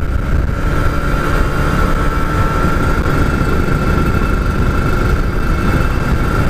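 Two-stroke Kawasaki Ninja RR motorcycle engine running at a steady, unchanging speed, with a constant high whine over a dense low rumble.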